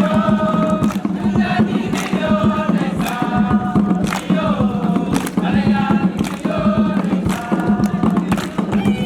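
A group singing a chant together in short repeated phrases, over sharp percussive beats and a steady low hum.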